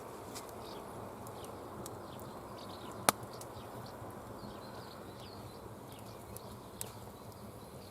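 Campfire wood crackling with scattered small clicks, one sharp loud pop about three seconds in and a smaller pop near the end.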